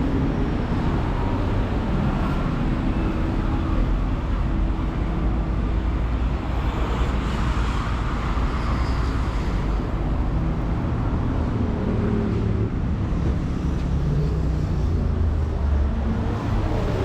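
Steady road traffic: a dense rumble of cars and other motor vehicles running along a busy street, with a faint engine hum now and then.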